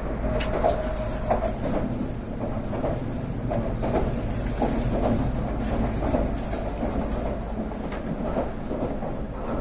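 Cabin noise inside a Tokaido Shinkansen train on the move: a steady low rumble from the running gear, with scattered light knocks and rattles.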